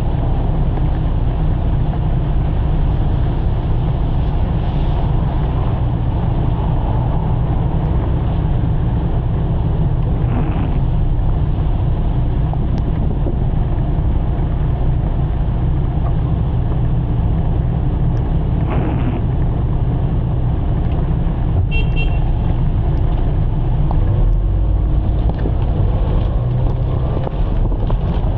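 Steady low rumble and hiss of vehicle noise and wind on the microphone in heavy rain, with a brief high beep about three-quarters of the way through.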